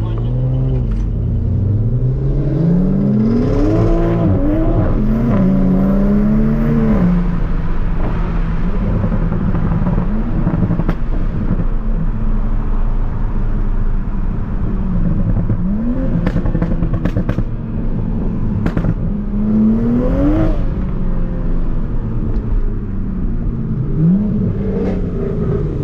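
Tuned Toyota Supra MK5's turbocharged B58 straight-six under hard acceleration. Its engine pitch rises in several pulls, dropping back at each shift and climbing again.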